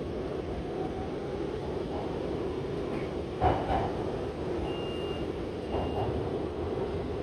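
Shanghai Metro Line 9 train running between stations, heard from inside the carriage: a steady low rumble with a sharp knock about halfway through and a lighter one near the end. A faint thin high tone sounds briefly twice.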